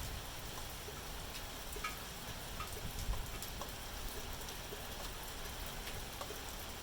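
Steady rain falling, a even hiss dotted with scattered single drops ticking.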